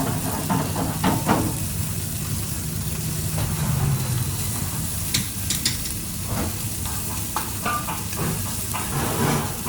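Food sizzling and frying in a pan, with a few sharp clinks of utensils against cookware over a steady low hum.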